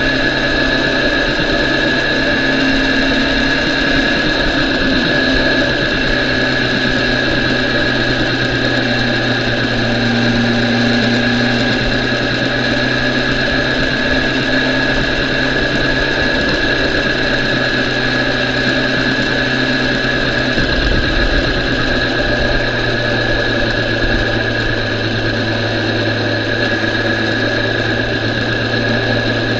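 BMW S1000RR's inline-four engine running at a steady, low, unchanging speed, with a steady high whine over it and no revving.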